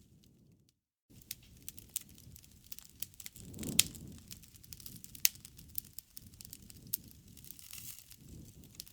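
Wood campfire crackling, with a low rumble of flames and frequent sharp pops, two of them loud near the middle. The sound drops out briefly about a second in.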